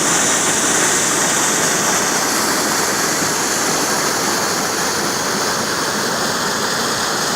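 Waterfall running full with snow melt, a steady loud rush of falling water pouring into a quarry.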